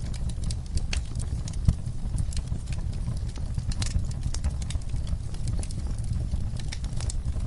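Wood fire burning in a fireplace: a steady low rumble of flames with frequent irregular crackles and pops, one louder pop about two seconds in.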